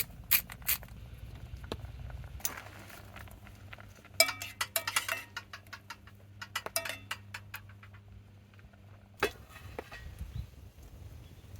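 Cookware and utensils clinking and clattering in short clusters, with one sharper knock near the end, over a low steady hum.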